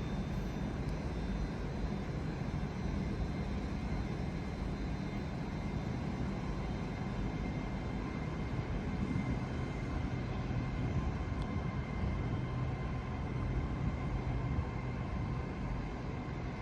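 A train at a station platform running: a steady low rumble with a droning hum.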